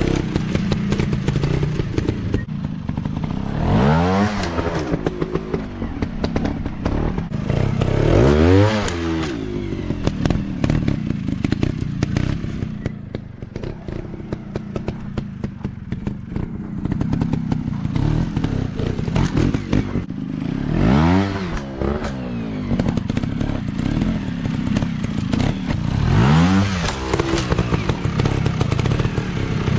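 Off-road dirt bike engines revving hard in four bursts, each climbing and then dropping in pitch, over a steady bed of engines running. Frequent sharp clicks and clatter run through it.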